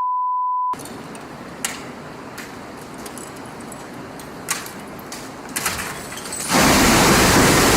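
A steady high beep cuts off under a second in. Then come a few sharp clicks over a low hiss, and a loud, even rushing noise starts about six and a half seconds in.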